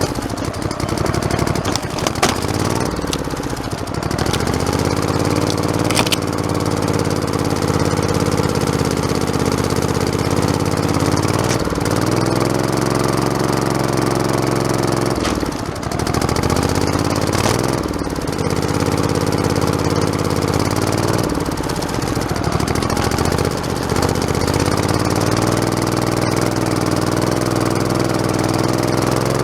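Modified lawn tractor's engine running under way, its note dipping and picking up again several times, with a few sharp knocks.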